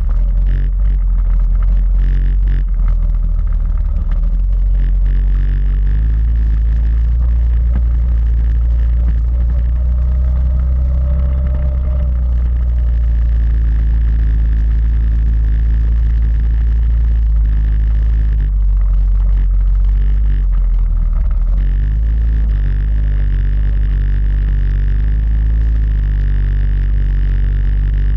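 Quad bike engine running steadily while riding off-road, with a heavy low rumble; its pitch swells up and back down briefly around the middle.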